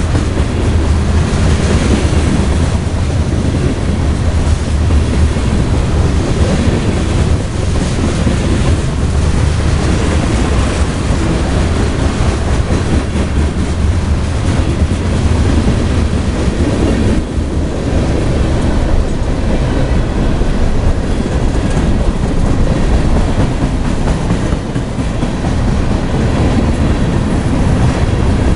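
Freight cars rolling past at speed close by: a steady, loud rumble of steel wheels on the rails with the clatter of wheels over the track.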